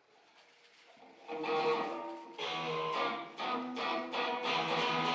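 A guitar strummed in chords with a steady rhythm, starting about a second in after a moment of near silence.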